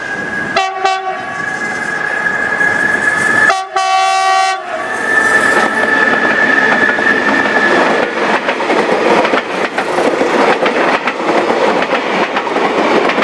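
Train horn sounding two short blasts, about a second in and near four seconds, over a steady high tone, then a passing train's wheels clattering continuously over the rails.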